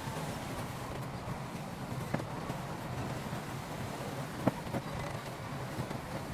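Diesel engine of heavy earthmoving equipment running steadily, with two sharp knocks about two and four and a half seconds in, the second louder.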